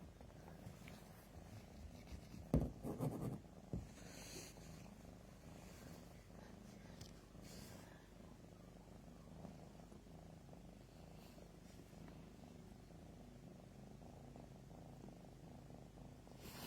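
A cat purring faintly and steadily, with a few soft knocks about two and a half to four seconds in.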